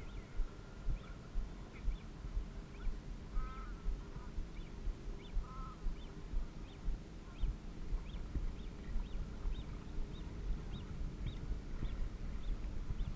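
Two short duck calls, about two seconds apart a few seconds in, over the steady low rumble of water around a kayak.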